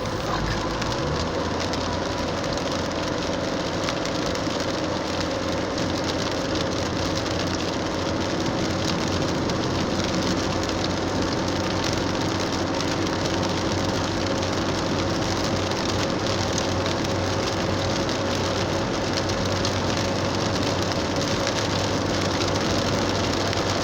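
Pouring rain on a car and tyres on a wet road, heard from inside the cabin of the moving car, with a steady low engine hum underneath.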